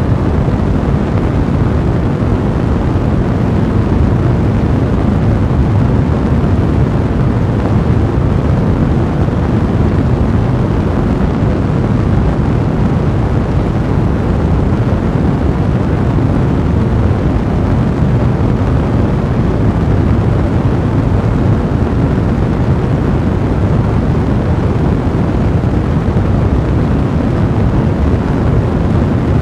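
A large fire blazing steadily, a dense, even low rumble of burning with no breaks.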